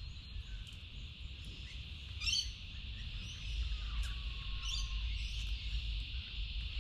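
Outdoor ambience: birds chirping, with short calls about two seconds in and again near five seconds and a faint falling whistle between them, over a steady high hiss and a low rumble.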